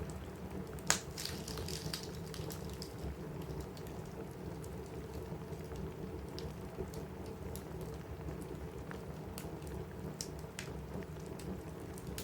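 Steady rain on a roof, with a wood fire crackling in a fireplace: scattered sharp crackles throughout and one loud pop about a second in.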